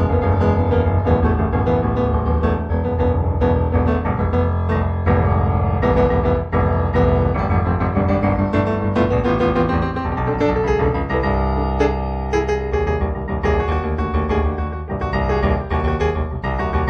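Improvised solo piano music: a steady stream of notes over sustained low bass notes.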